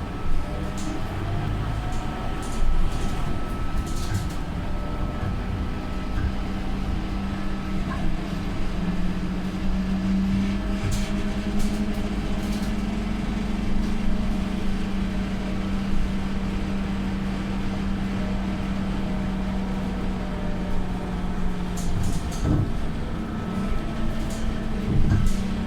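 Scania K230UB single-deck bus's diesel engine running steadily with its ZF Ecomat automatic gearbox while the bus is under way: a continuous low drone whose pitch edges up about ten seconds in and dips near the end, with scattered light rattles.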